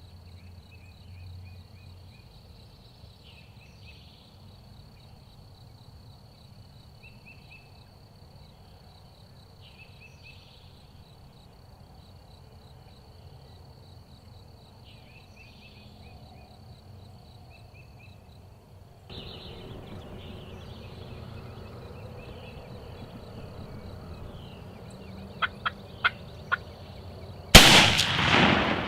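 Wild turkey gobbling several times, with a steady high insect trill behind. Near the end come three sharp clicks and then a single loud shotgun shot that rings out for about a second.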